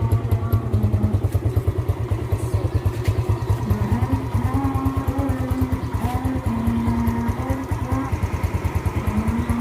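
Yamaha Jupiter Z motorcycle's single-cylinder four-stroke engine idling with a steady, fast, even pulse, with background music over it.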